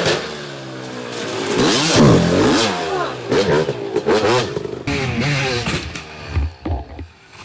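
Motocross dirt bike engines revving hard, their pitch rising and falling repeatedly as the throttle is worked and the gears shift.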